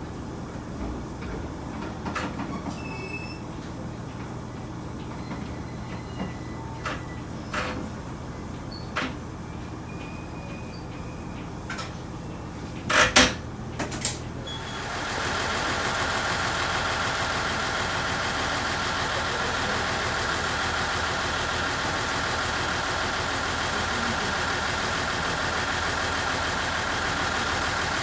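Diesel railcar: a low steady hum with scattered small clicks, then two loud knocks about 13 and 14 seconds in. After that, a louder steady engine noise takes over and holds even.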